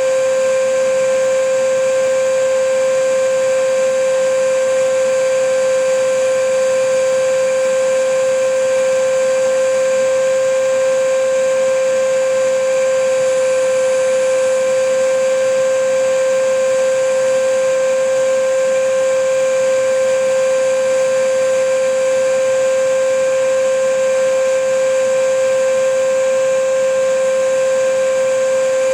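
Vacuum cleaner motor running steadily: a continuous airy rush with one strong, unwavering whine, unchanged in pitch and loudness.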